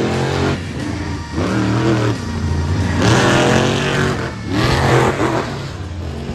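Monster truck engines revving hard, the pitch climbing in three surges about a second and a half apart.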